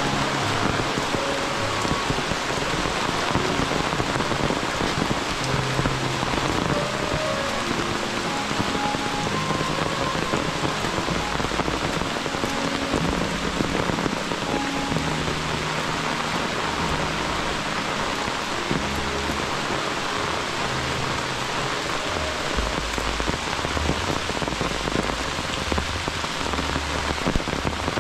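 Steady rain falling on leaves and the ground.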